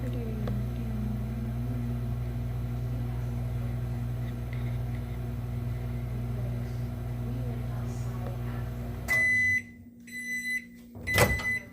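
Microwave oven running with a steady low hum that cuts off about nine seconds in, followed by its short, high end-of-cycle beeps, with a sharp knock shortly before the end.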